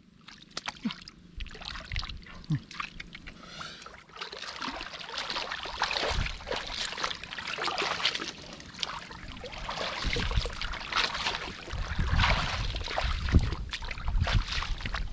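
Shallow muddy water sloshing and splashing as hands work through it, with irregular wet slaps that grow busier from about four seconds in.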